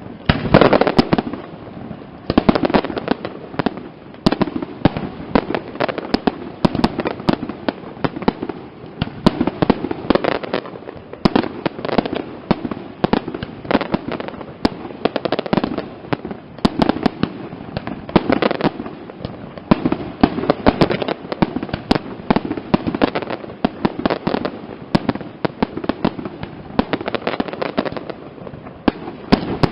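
Castillo fireworks display: a dense, continuous run of bangs and crackles from aerial shells, its loudness surging and ebbing in waves every few seconds.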